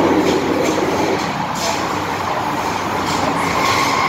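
MTR M-Train running on the Island Line, heard from inside the car: a steady rumble of wheels on rail with faint regular knocks, easing slightly about a second in, and a steady whine joining near the end.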